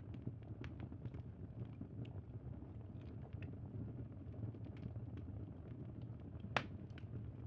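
Campfire burning: a steady low rumble of flames with scattered small crackles and one sharp, loud pop about six and a half seconds in.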